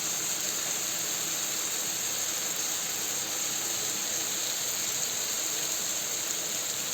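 Steady sizzling hiss of a paella base frying in oil in a pan: peppers, tomato, garlic and parsley with shrimp.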